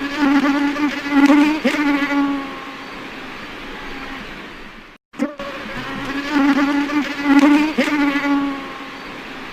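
A flying insect buzzing with a steady drone. The same short recording plays twice in a row, with a brief break about five seconds in.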